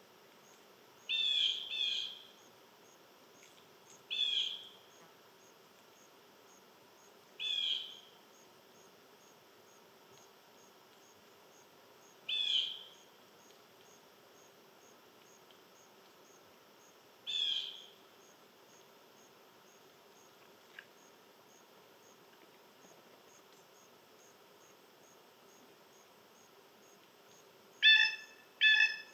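A bird giving short chirpy calls every few seconds, two quick calls near the end the loudest. Behind them runs a steady high insect pulsing, about two pulses a second.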